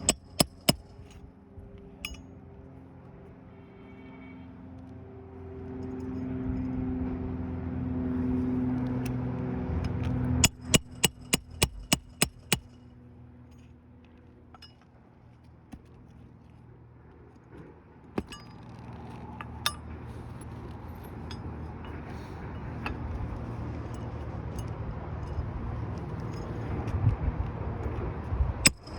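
Quick runs of sharp metallic hammer blows, about eight at a time at roughly four a second, heard twice with a few single knocks between, from work loosening and re-nailing an asphalt roof shingle. Under them a low engine drone swells and fades.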